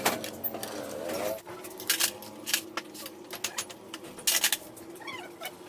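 Sharp metallic clinks and clanks of hand tools and loose engine parts being handled while a motorcycle engine is taken apart, with a cluster of strikes about two seconds in and again past four seconds.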